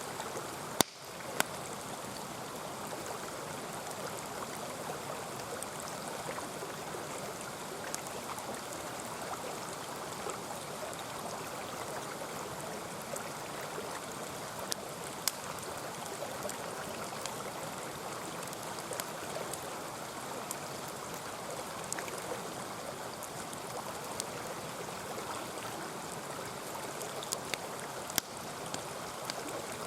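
Mountain stream rushing steadily, with scattered sharp pops and crackles from a wood campfire. A louder click about a second in.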